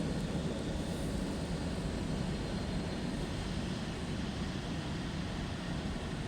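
Car wash machinery heard from inside the car's cabin: a steady, unbroken noise, heaviest in the low end.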